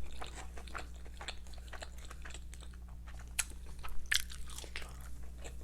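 A person chewing food close to the microphone: a run of small wet mouth clicks and smacks, with a couple of sharper ones about three and a half and four seconds in.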